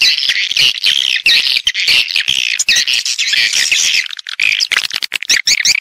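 A dense, continuous chorus of swiftlet chirps and twitters with many sharp clicks, thinning briefly a little after halfway. This is a swiftlet-house lure recording of call and roost sounds, played to draw edible-nest swiftlets in.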